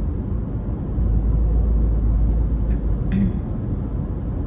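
Low, steady road and engine rumble inside a moving car's cabin, growing louder about a second in, with a few faint clicks around the middle.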